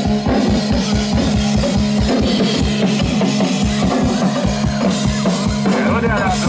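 Live drum kit and synthesizer playing loud instrumental rock-style music: rapid, dense drum hits over a sustained low synth drone, with gliding synth tones near the end.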